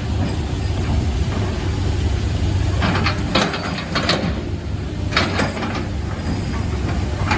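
Heavy diesel engine running with a steady low rumble, with a handful of sharp metallic knocks or clanks about halfway through.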